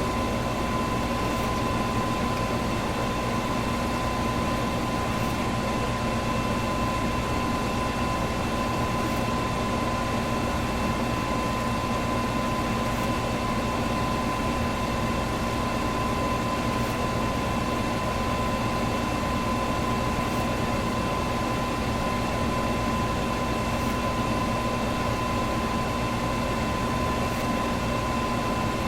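Electric fan running steadily: an even whooshing rush of air with a constant motor whine.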